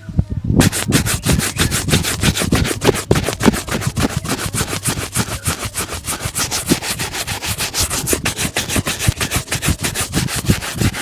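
A shoe being shined: fast, even back-and-forth rubbing strokes, about five a second, that start about half a second in.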